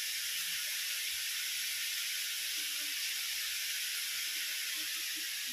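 Chopped potatoes and cabbage frying in oil in a steel kadai on a gas stove: a steady, even sizzle.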